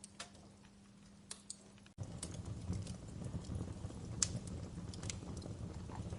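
Wood fire crackling in a fireplace, with irregular sharp pops. About two seconds in, the sound cuts out for an instant, then comes back with a louder low rumble of flames under the crackle.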